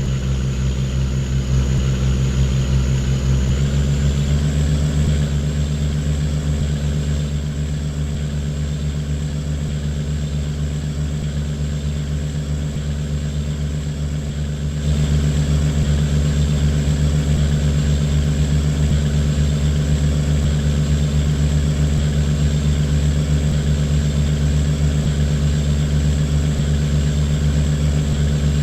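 A boat's engine running steadily under way. Its pitch steps up slightly about three seconds in, and it grows louder about halfway through.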